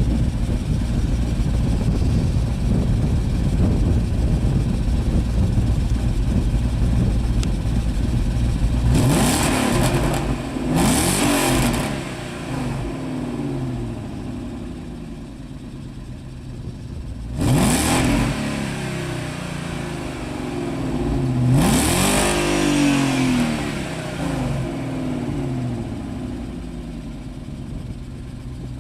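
BMW 740i engine with de-cat pipes fitted in place of the catalytic converters, idling steadily and then revved four times: two blips close together about nine and eleven seconds in, then two more later on, each dropping back to idle.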